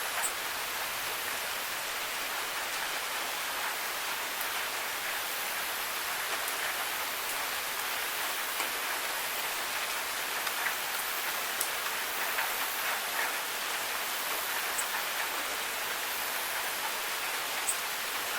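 Steady rain falling on hard surfaces, an even hiss with scattered individual drops ticking through it.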